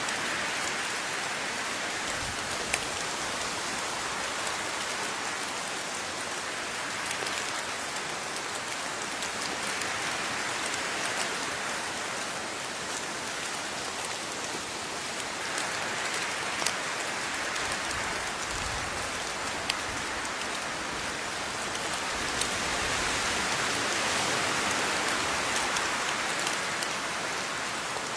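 Steady rain falling on a surface, a dense hiss that swells and eases every few seconds, with scattered louder drops ticking through it.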